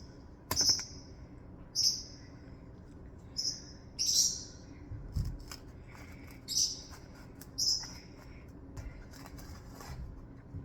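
A small bird chirping: about six short, high-pitched chirps with irregular gaps between them.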